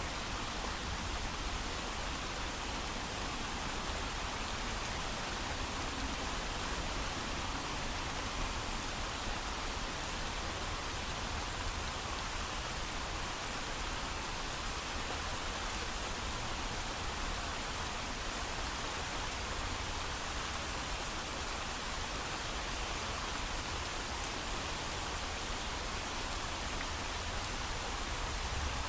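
Steady heavy rain, an even hiss of falling water with no thunder.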